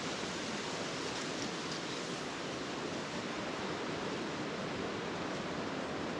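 Strong wind blowing steadily, a constant rushing noise with no breaks.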